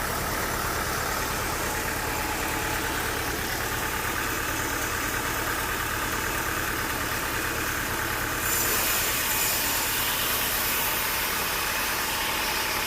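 Sawmill machinery running with a steady engine hum. About eight and a half seconds in, a bright high hiss comes in suddenly and carries on over the hum.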